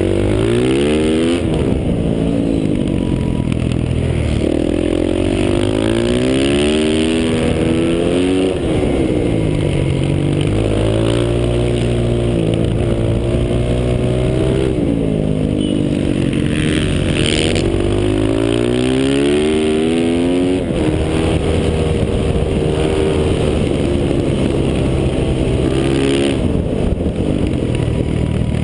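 Stock Yamaha YZ450F's single-cylinder four-stroke engine under race load, pitch climbing and dropping again and again as the bike accelerates out of corners and slows into them.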